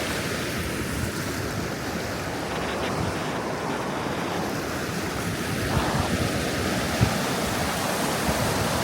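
Floodwater pouring through a river lock: a steady rush of high, fast-flowing water. Wind buffets the microphone with a few low thumps near the end.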